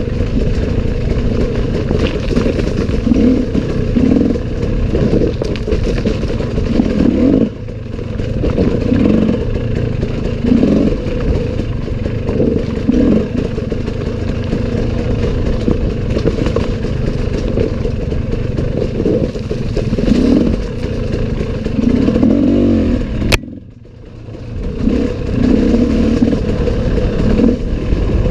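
Enduro dirt bike engine revving up and down in repeated throttle bursts on rough forest trail, with clattering over the terrain. About 23 s in the engine sound drops off sharply after a click, then picks back up within a couple of seconds.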